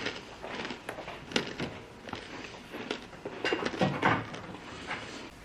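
Kitchen handling sounds: scattered light clicks, taps and rustling as food and containers are moved about, with a few soft knocks about four seconds in.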